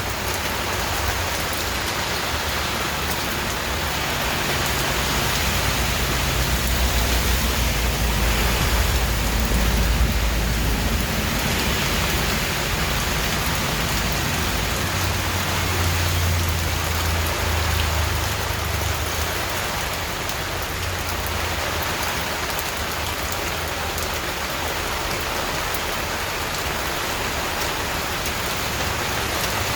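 Steady rain falling, an even hiss with no break. Low thunder rumbles swell twice, once near the start for several seconds and again about halfway through.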